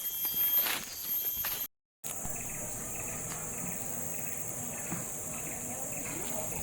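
Rainforest insects droning in a steady, high-pitched chorus. The sound drops out completely for a moment about two seconds in, then the drone carries on.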